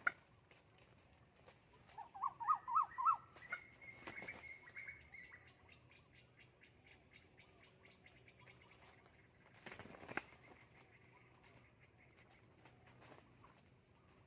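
Decoy rooster calling: a quick run of about five short, rising notes about two seconds in, then a thin high tone trailing off. A brief rustling burst comes near the end.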